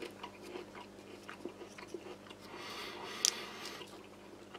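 Faint crunching and chewing of a dry, plain salted wheat cracker, small crisp clicks with a sharper crack about three seconds in.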